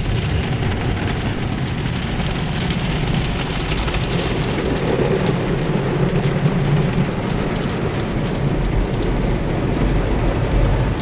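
Automatic car wash spraying water over the car: a steady drumming hiss over a low rumble.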